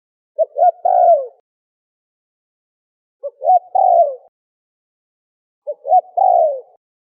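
Spotted dove (terkukur) cooing three times, each call two short notes followed by a longer, falling coo, repeated about every two and a half seconds.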